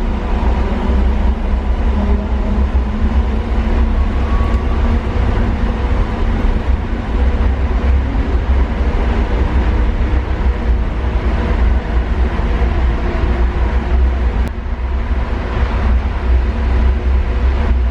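Inside a moving airport inter-terminal shuttle train: a steady, loud low running rumble with a faint steady whine.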